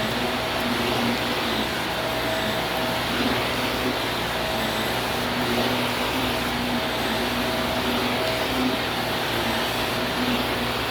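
Vacuum cleaner running steadily: a constant motor hum and whine over a rush of air.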